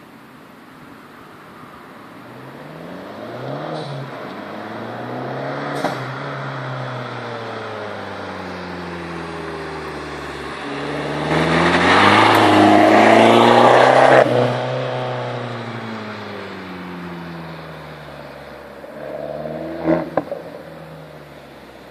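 Abarth 595 Competizione's 1.4 turbo four-cylinder breathing through a Magneti Marelli Bombardone race exhaust, its revs climbing and dropping several times as it pulls through the gears. It is loudest about halfway through, then dies away, with a few sharp cracks near the end.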